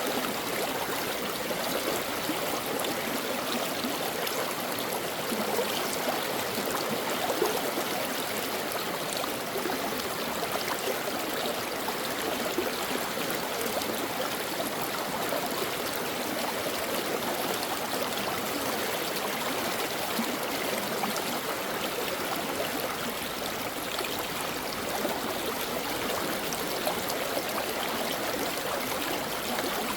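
A stream of water flowing and babbling over rocks, a steady rushing with small splashes and trickles.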